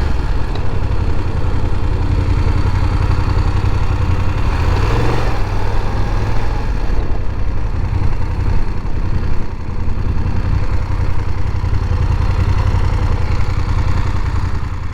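Motorcycle engine running steadily, with a brief shift in pitch about five seconds in.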